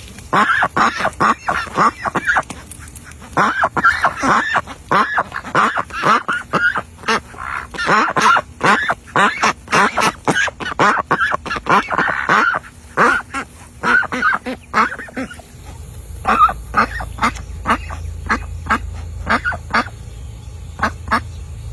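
A flock of ducks quacking, many short calls overlapping in rapid runs. After about fifteen seconds the calls thin out and a steady low rumble comes in under them.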